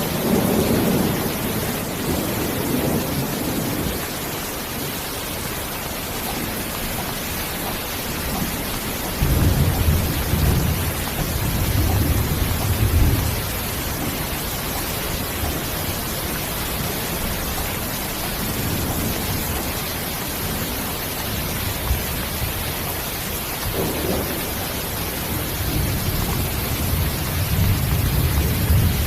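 Steady rain with thunder rumbling in long low swells: one at the start, a longer one about ten seconds in, and another building near the end.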